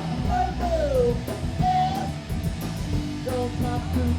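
Punk rock band playing live: electric guitar, bass and drum kit going steadily.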